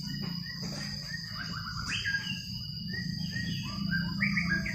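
Birds chirping: many short, quick chirps that step upward in pitch, thickest near the end. Behind them run a steady high-pitched tone and a low hum.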